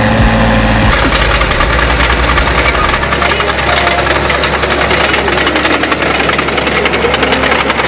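Diesel tractor engine running steadily under load, pulling a plough through the field.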